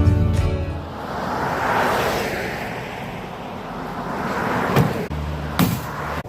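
Acoustic guitar music ending about a second in, then a rushing noise that swells and fades twice, with a couple of sharp knocks and a low hum near the end.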